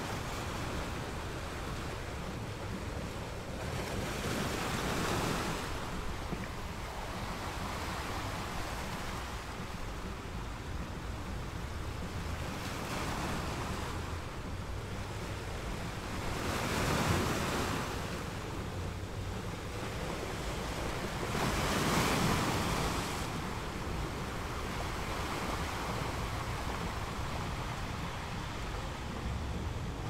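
Ocean waves breaking: a continuous rush of surf, with louder crashes about five, seventeen and twenty-two seconds in.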